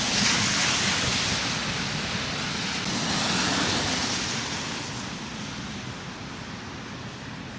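Rushing hiss of traffic tyres on a snowy, slushy road. It swells twice as vehicles pass, then fades away.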